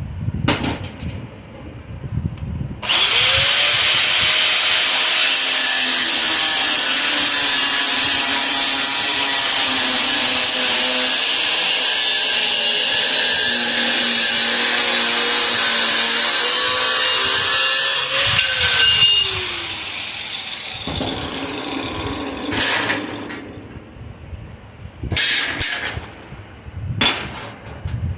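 A handheld power tool spins up, runs steadily on metal for about fifteen seconds with a dense, hissing noise over its motor tone, then winds down. A few short knocks follow near the end.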